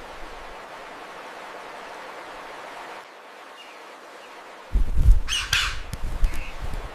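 Outdoor bird ambience: a steady hiss, then faint chirps and a loud harsh bird squawk in two quick strokes about five seconds in, over a low gusty rumble of wind on the microphone.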